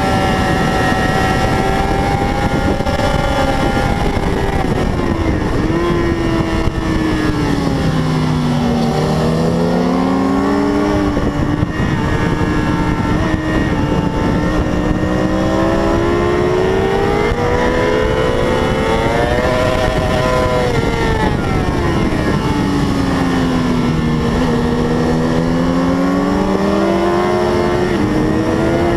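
600 cc racing motorcycle engine running hard at speed over steady wind noise. The engine note falls twice, about eight and twenty-four seconds in, and climbs again each time as the bike accelerates back up through the revs.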